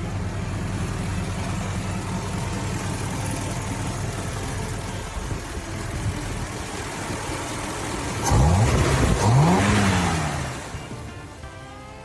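1949 Ford sedan's 239 flathead V8 running steadily, then revved about eight seconds in, the pitch rising and falling twice before the sound fades out.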